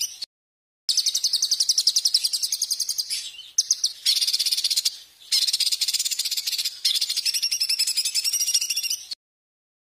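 A small songbird singing rapid, high, buzzy trills in several bursts, each starting and stopping abruptly where the clips are spliced; it stops suddenly about nine seconds in.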